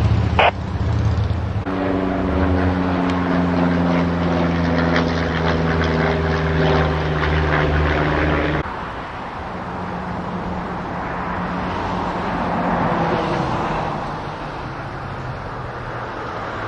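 An engine running steadily at a constant pitch, stopping abruptly about eight and a half seconds in, followed by a steady rushing outdoor noise.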